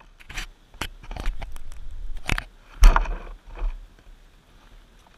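Irregular knocks and scraping, several sharp ones about two and three seconds in, over a low rumble.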